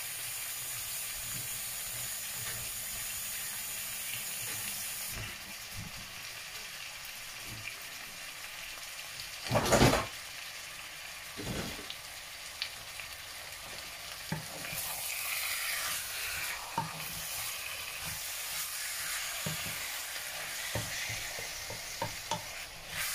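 Cubed chicken breast and onion sizzling as they fry in a nonstick pan, stirred with a wooden spatula near the end. One loud knock about ten seconds in.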